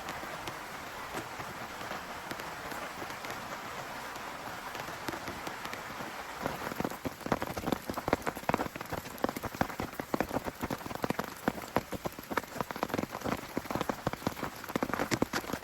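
Heavy rain falling on a tent: a steady hiss at first, then about six seconds in, dense, louder drops start striking close by as many separate sharp taps.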